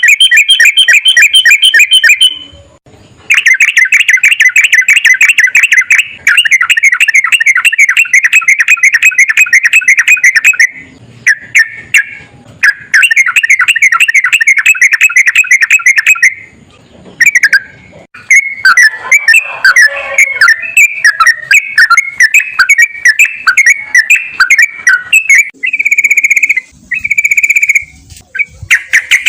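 Yellow-vented bulbul (trucukan) singing loud, fast rolling song in long unbroken runs of several seconds each, with short pauses between them. The phrases grow more varied in the second half.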